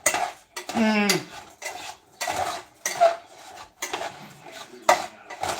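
Kitchen utensils clinking and knocking against dishes and pans in a string of short, sharp strikes while food is being prepared.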